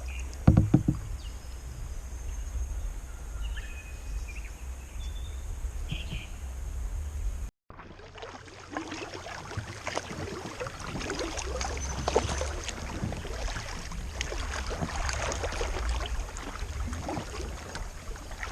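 Kayak paddling: the paddle blades dipping and splashing, with water dripping off them, and a sharp knock about half a second in. The sound cuts out briefly partway through, then comes back with louder, busier splashing and wind.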